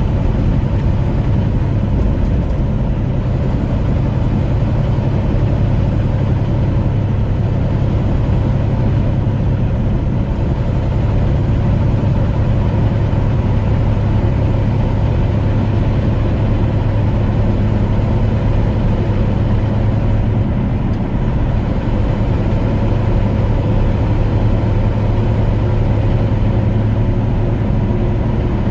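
Truck engine and road noise heard from inside the cab, a steady unbroken drone at cruising speed.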